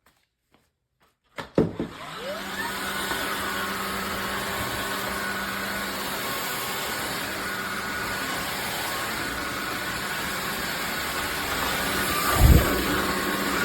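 Dreame H12S cordless wet-dry vacuum mop starting up about a second and a half in: a couple of clicks, then the motor spins up with a rising whine. It then runs steadily with a hum and a high hiss. Near the end come a few low thumps.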